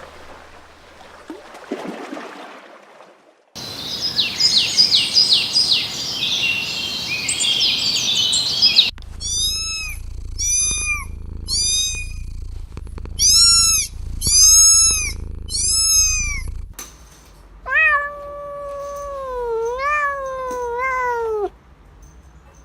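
Cats meowing: a run of short, high, repeated mews, then a few longer, lower meows that waver in pitch near the end. Before them comes a stretch of rapid high chirping.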